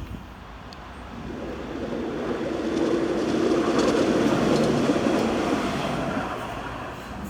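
A light-rail tram passing by: its running noise and wheel rumble swell to a peak about four seconds in, then fade away.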